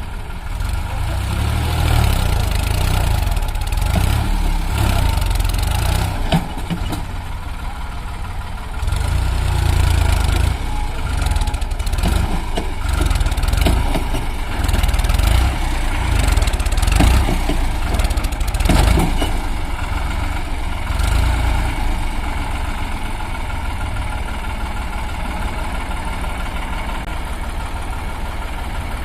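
Heavy diesel machine engine working under load, revving up and easing off twice, with a few sharp knocks or clanks in the middle stretch, then settling to a steady idle-like run.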